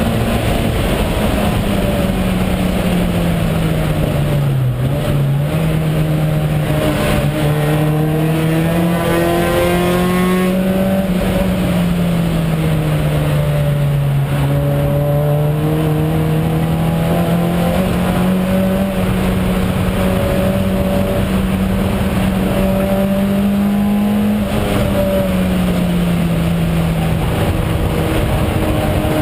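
VW Jetta race car's engine running hard at racing speed, heard from inside the stripped cabin. Its pitch sags and climbs slowly several times, over a steady rush of road and wind noise.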